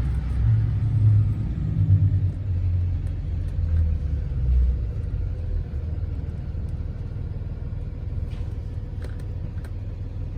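Low vehicle rumble heard from aboard a bus. It is strongest and uneven for the first few seconds, then eases to a steadier hum.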